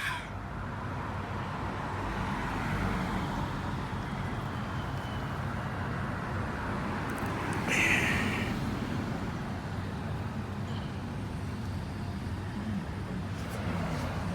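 Steady road-traffic rumble, with a brief higher-pitched sound about eight seconds in.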